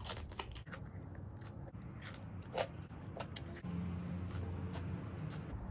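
Close-up eating: bites and chewing of food eaten by hand, heard as a run of sharp, wet mouth clicks. A low steady hum joins in a little past halfway.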